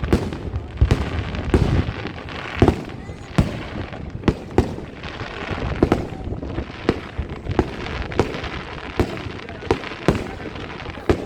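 Fireworks display: a steady run of sharp bangs, about one or two a second, over a continuous crackling haze.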